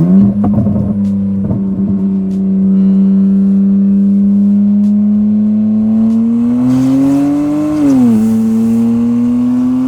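BMW 335i's N54 twin-turbo inline-six, straight-piped from the turbos back through catless downpipes only, running loud with a steady drone under light throttle. A few sharp pops come in the first couple of seconds. Later the revs climb slowly, dip sharply about eight seconds in, and climb again.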